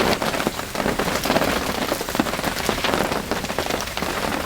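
Steady rain, with many separate drops tapping sharply on a nearby surface.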